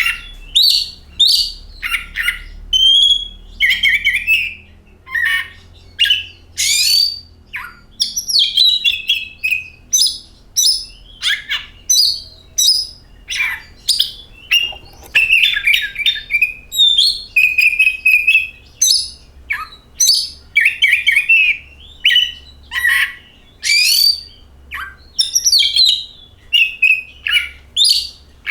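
Oriental magpie-robin singing a long, varied song: loud whistled phrases mixed with quick chirps and harsh notes, one short phrase after another with brief pauses between them.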